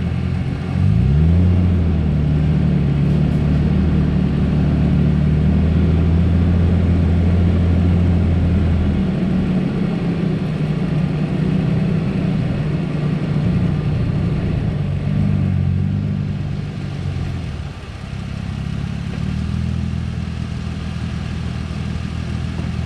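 An off-road vehicle's engine revving up about a second in and then running under steady throttle as it crawls over rocks, easing off briefly near the end before picking up again.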